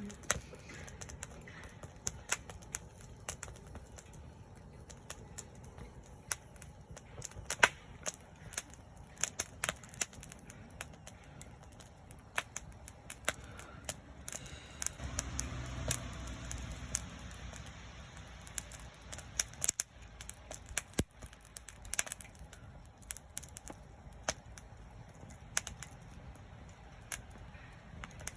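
Wood campfire crackling, with sharp, irregular pops of varying loudness throughout. A low rumble swells for a few seconds around the middle.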